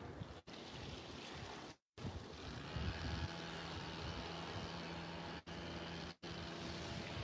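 Waterside ambience of wind on the microphone and water, with a faint steady motor hum that comes in about three seconds in. The sound cuts out briefly a few times.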